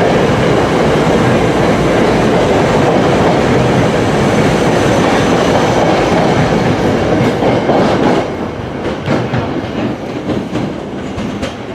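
Commuter train passing close by at speed: a loud, steady rush of wheel and rail noise that drops off sharply about eight seconds in as the end of the train goes by.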